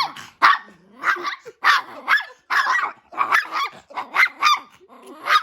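A dog barking in a rapid, loud run of short barks, about two a second, at a man coming near his wife, which the owner takes for possessive guarding of her.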